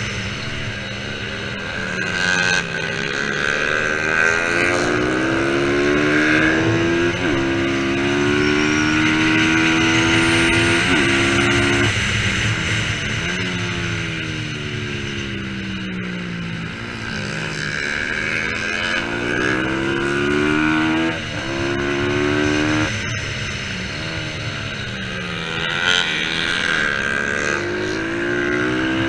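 Racing motorcycle engine accelerating hard, its pitch climbing through the gears with a drop at each shift, then falling away as it slows and picking up again, several times over.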